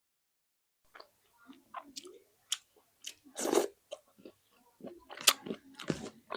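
Close-miked chewing and wet mouth sounds of someone eating egg with rice, an irregular run of clicks and smacks. It starts about a second in, after dead silence.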